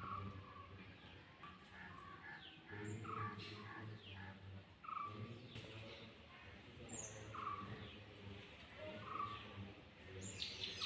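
Birds calling outdoors: a short call repeated every two seconds or so, with a few brief high chirps in between.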